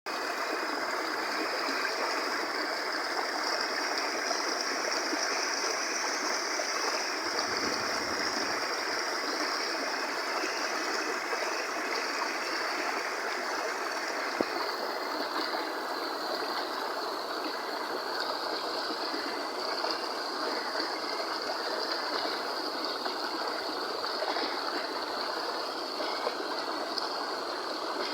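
Steady rush of a flowing stream, with a steady high-pitched hiss above the water and a brief low rumble about eight seconds in.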